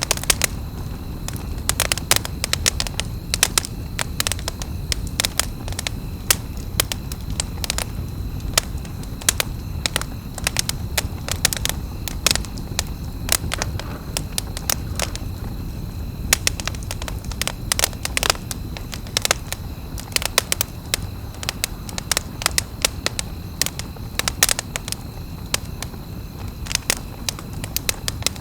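Wood campfire crackling: many sharp, irregular pops and snaps over a steady low rush of burning.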